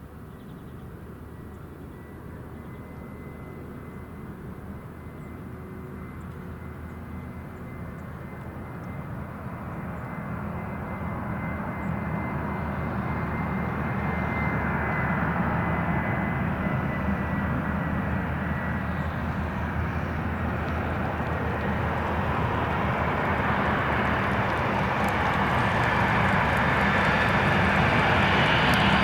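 Boeing 747 jumbo jet on approach to land, its four jet engines growing steadily louder as it comes closer. A thin high whine sits on top of the roar at first and fades out about two-thirds of the way through.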